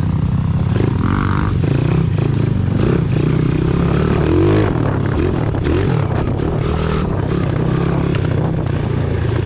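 Pit bike's small single-cylinder engine running and revving up and down while riding, with rattling and knocks from the bike.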